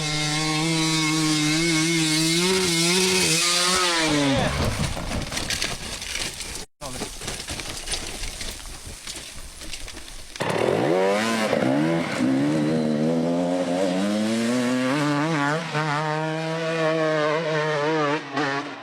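Enduro dirt bike engine revving hard under load, its pitch rising and falling with the throttle. The revving dies down after about four seconds and comes back strongly after about ten seconds.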